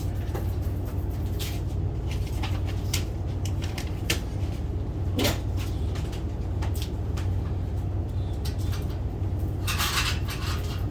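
Scattered light knocks and clicks of parts and tools being handled, with a brief scraping rustle near the end, over a steady low hum.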